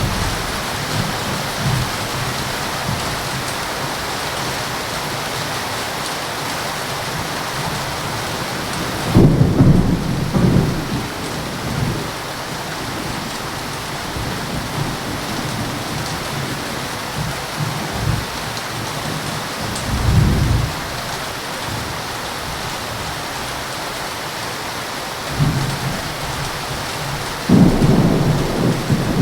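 Heavy rain falling steadily, with rolls of thunder: a loud rumble about nine seconds in, another around twenty seconds, and thunder building again near the end.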